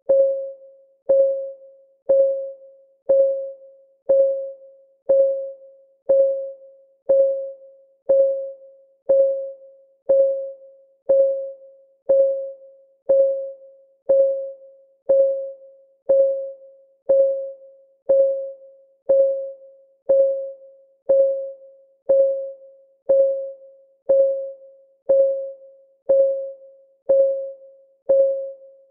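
Clock ticking sound effect of a countdown timer: one short, pitched tick every second, each ringing briefly and fading before the next.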